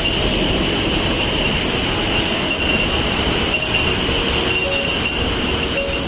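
Waterfall roar: a loud, steady rush of falling water with no breaks.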